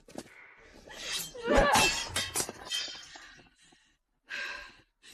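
A crash of something breaking, with a cluster of sharp clinking strikes about a second in, loudest near the start, and a short hiss-like burst near the end.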